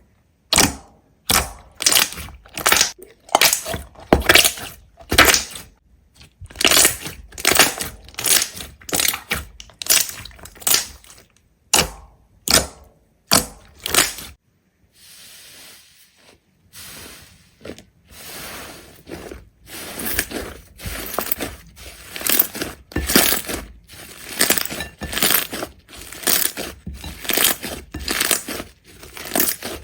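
Repeated crisp crunching strokes, roughly one to two a second, with a softer, duller stretch about halfway through before the crunches pick up again.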